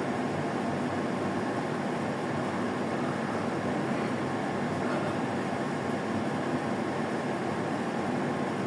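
Steady, even rushing background noise, with no distinct knocks or footsteps standing out.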